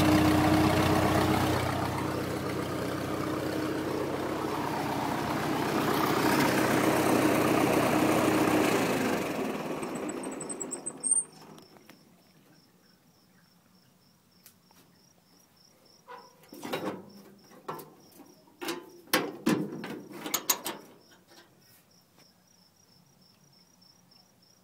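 Ford 8N tractor's four-cylinder flathead engine running, then winding down and stopping about ten seconds in. After it stops, a cricket chirps steadily, with several knocks and clunks a little later.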